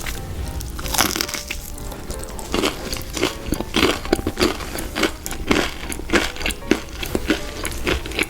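Close-up crunching and chewing of crisp fried food, with sharp crunches roughly every half second to second, over soft background music.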